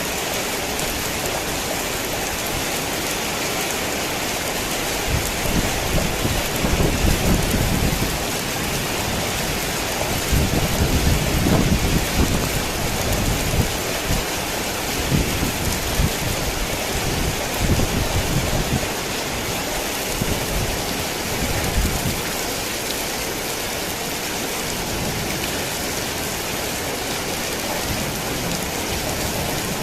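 Heavy rain falling steadily, with thunder rumbling low in several swells through the middle.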